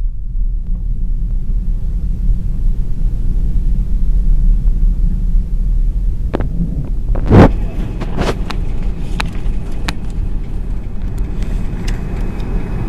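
Steady low rumble inside the cabin of an Airbus A330 on the ground before takeoff, broken by a few sharp knocks and clicks in the second half; the loudest knock comes about seven seconds in.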